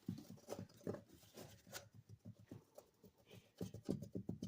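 Cat scratching and batting at a cardboard box, in irregular scratchy taps that come faster near the end.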